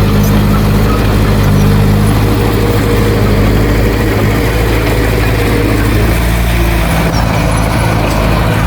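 Heavy diesel engine of earthmoving equipment running steadily, its note shifting slightly lower about halfway through.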